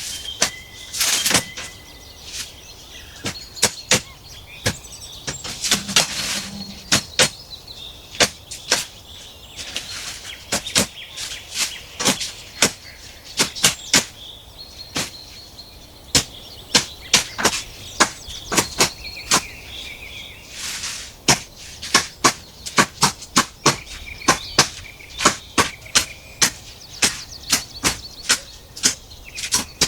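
Sharp knocks and clicks, irregular and often in quick runs of two or three a second, with faint high chirps between them.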